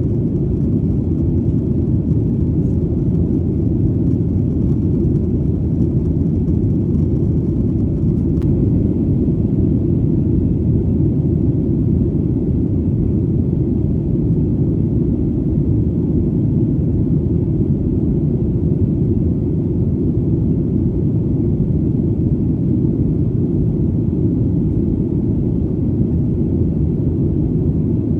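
Airplane in flight: a steady, deep rumbling drone, all low and unchanging, with no whine or rise and fall in pitch.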